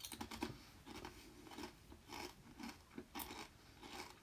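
Gritty crunching and scraping of soil and rubble, in short uneven bursts about two a second.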